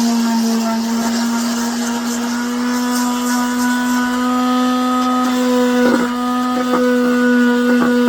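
A small high-speed electric motor running steadily at one constant pitch, with a few light knocks near the end.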